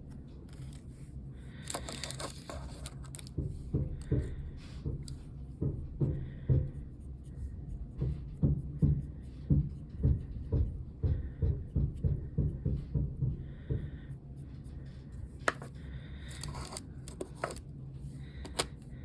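Handwork at a craft table: a run of soft, quick taps about two a second, with brief scratchy rustles before and after, over a steady low hum.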